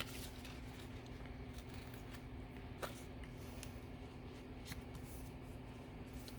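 Paper being handled at a craft table: scattered rustles and a few sharp clicks, the loudest just under 3 seconds in, over a steady low hum.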